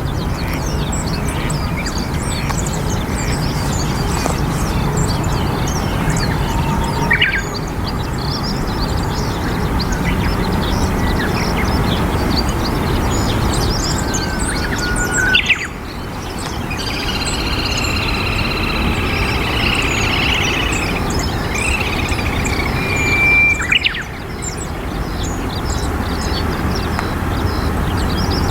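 Wild birds chirping and calling now and then over a steady low background rumble.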